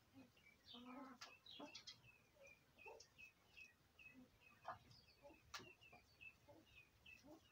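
Faint bird chirping: a run of short high chirps repeating about two or three times a second, with other scattered calls and a couple of sharp clicks.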